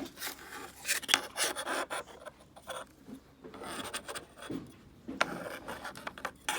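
Kinetic sand being scraped and worked with a tool: irregular scratchy rasping and crunching with quick clicks.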